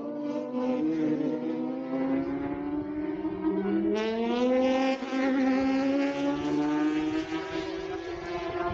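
Superbike racing motorcycles accelerating hard past, several engines overlapping with their pitch rising; a louder bike cuts in sharply about four seconds in and climbs in pitch as it pulls away.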